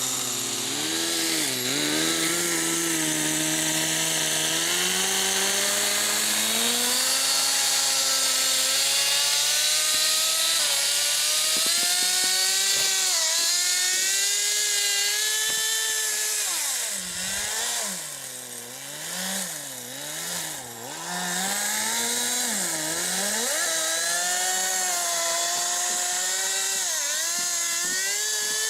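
Kyosho Blizzard RC snowcat's GX15 nitro engine running, its pitch rising and falling with the throttle. About two-thirds of the way through it is throttled down and up several times in quick succession, then settles back to a steady high run.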